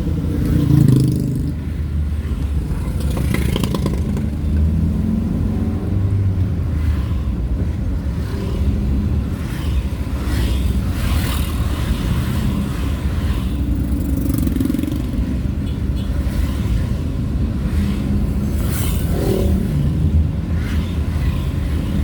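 Motor vehicle running on the road: a steady engine rumble with road and wind noise, the engine note rising and falling a few times.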